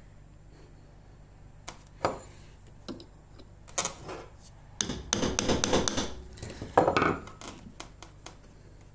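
Hammer striking a metal punch against the lawnmower's drive axle to knock out a stuck key: a few sharp metal taps about 2 and 4 seconds in, a clattering run of blows and rattles in the middle, and a loud strike near 7 seconds.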